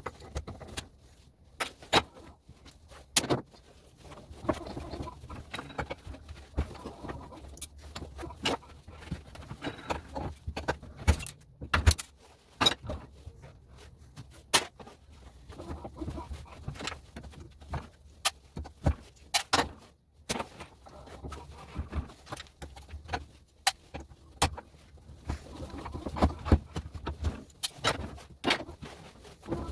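Irregular sharp clicks and snaps from hand work dismantling old household plugs for their brass pins and copper wire, over a faint low hum.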